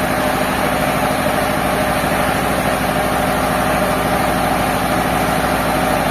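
Heavy engine running steadily at idle, an even, unchanging hum of sawmill machinery.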